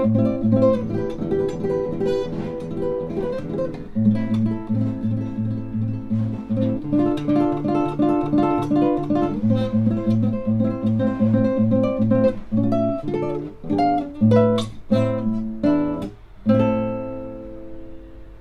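Acoustic guitar music: plucked notes in a steady rhythm, ending on a chord that rings out and fades near the end.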